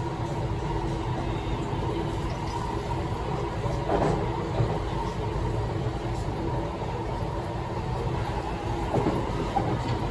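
Kawasaki–CRRC Qingdao Sifang C151C metro train running between stations, heard from inside the carriage: steady wheel and track rumble with the traction motors' steady tones over it, running in rain mode. Two short knocks come about four seconds in and near the end.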